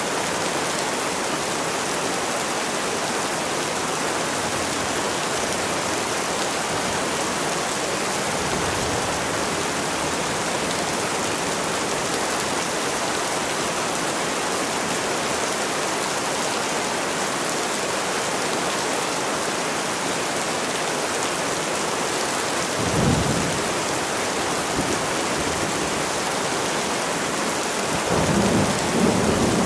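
Steady rain falling, with a low rumble of thunder about three-quarters of the way through and a longer one near the end.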